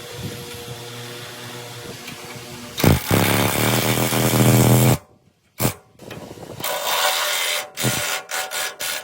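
Workshop power machinery running, first with a steady hum, then louder from about three seconds in. The sound cuts off abruptly near the middle and starts again in short pieces.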